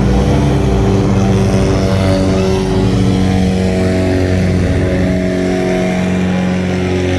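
Airboat's engine and air propeller running steadily at cruising speed, its pitch shifting slightly partway through.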